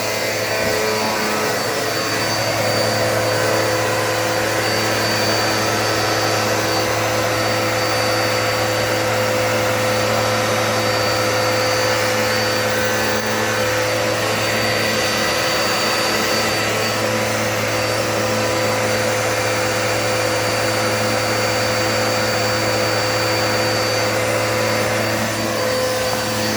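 Dirt Devil multi-surface vacuum cleaner running steadily with a constant motor whine and rushing airflow.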